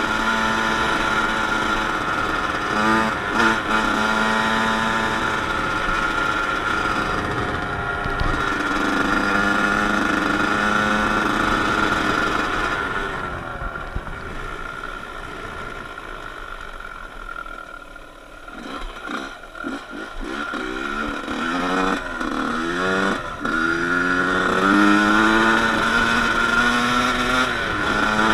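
Dirt bike engine running and revving. It drops to a lower, quieter note about halfway through, then climbs in pitch again and again in short rising sweeps.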